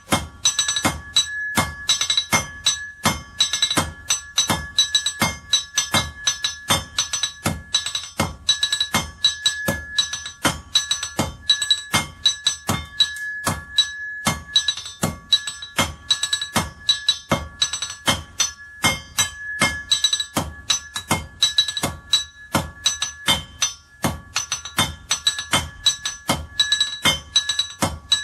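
Blacksmith's hammer striking iron on an anvil in quick repeated blows, about three a second with brief pauses, each blow leaving a bright metallic ring.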